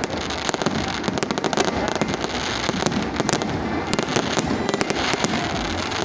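Fireworks display: a dense, continuous crackle of many rapid pops and bangs.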